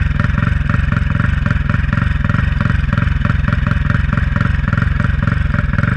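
Turbocharged Honda Titan 160's single-cylinder four-stroke engine idling, with a steady, even beat and no revving.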